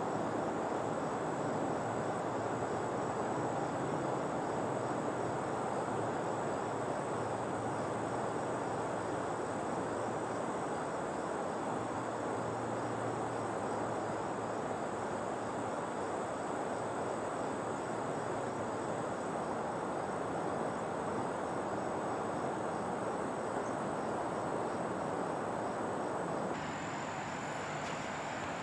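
Insects trill steadily and high-pitched over a constant rushing background noise; about 26 s in, the noise drops a little and the trill shifts.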